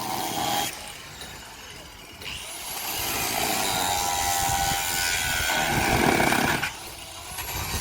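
Handheld electric saw cutting wooden boards in bursts, its motor whining up at each start. There is a brief cut at the start, a longer cut from about two seconds in that stops shortly before the end, and another starting just before the end.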